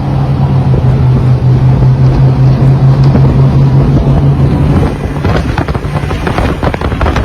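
High-speed police motorboat's engines running hard under acceleration, a steady deep drone. Wind buffets the microphone throughout. About five seconds in, the engine tone fades and wind and water rush take over.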